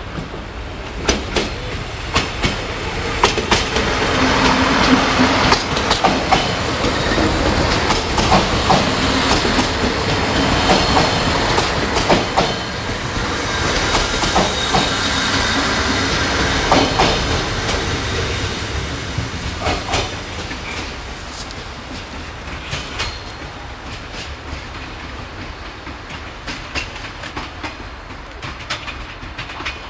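Siemens Desiro diesel multiple unit passing: wheels clacking over rail joints and engines running, growing louder as it approaches, loudest from about four to seventeen seconds in, then fading as it draws away. A thin high wheel squeal sounds briefly near the middle of the pass.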